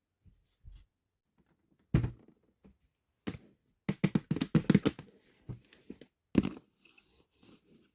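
Plastic toy parts being handled on a hard surface: a few separate knocks, then a quick run of clicks and taps, and one more knock near the end.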